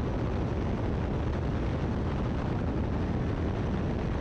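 Great Lakes open-cockpit biplane's engine running steadily in flight, heard as an even drone mixed with wind noise.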